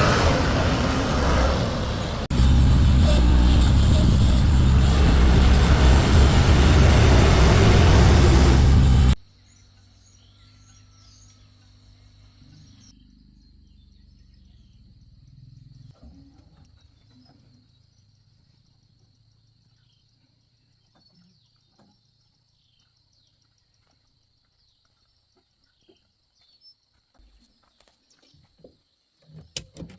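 Loud, steady vehicle noise with a heavy low end, which cuts off abruptly about nine seconds in. After it come faint bird chirps over a thin, steady high-pitched tone and a low hum, then near silence with a few light clicks.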